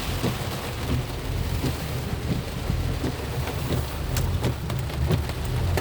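Heavy rain pattering on a car's roof and windshield, heard from inside the cabin. Under it runs a steady low rumble, with scattered sharp drop taps.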